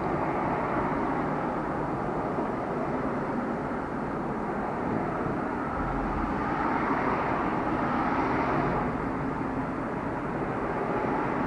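Steady road traffic noise from a street, swelling a little partway through as a vehicle passes.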